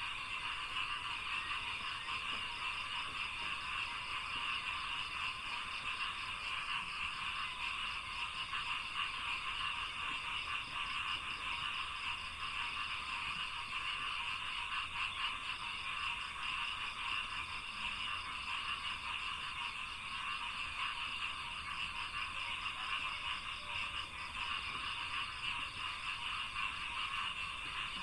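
A dense chorus of frogs in a rice paddy croaking without a break, thick and even in level, with a faint steady high hum above it.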